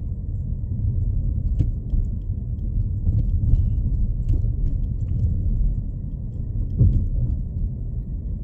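A car driving on a snow-covered back road: a steady low rumble from the engine and tyres, with a few faint clicks.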